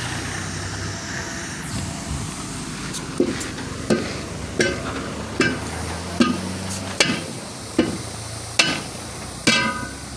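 Hammer striking a tractor wheel rim and tyre during tyre fitting: nine steady blows, about one every 0.8 s, each with a short metallic ring, starting about three seconds in, over a steady low hum.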